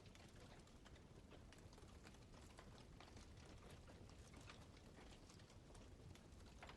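Campfire crackling faintly, with irregular small pops and snaps over a soft low background.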